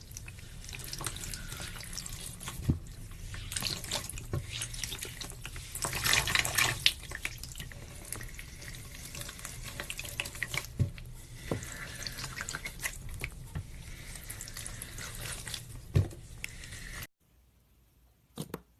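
Slime being squeezed and worked by hand: continuous wet squishing with scattered sharp pops, cutting off abruptly about seventeen seconds in.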